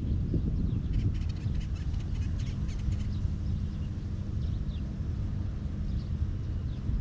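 Faint, short high-pitched bird chirps now and then over a steady low rumble, with a patch of fine rustling clicks about a second in.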